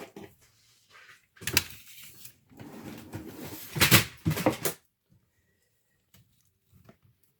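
Hands working on a laptop's plastic case and parts: a run of clicks, knocks and scraping between about one and five seconds in, then little.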